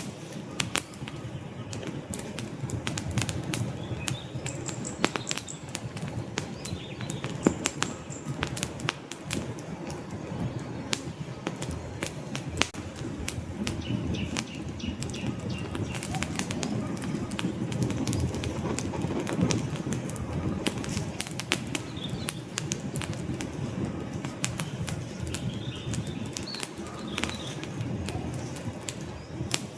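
Wood fire burning in a fireplace: many sharp crackles and pops from the logs over a low, steady rumble of flame.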